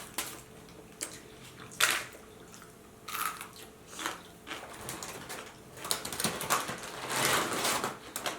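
A person biting and chewing a fast-food sandwich close to the microphone: a few sharp wet bites, then a longer stretch of chewing noise about seven seconds in.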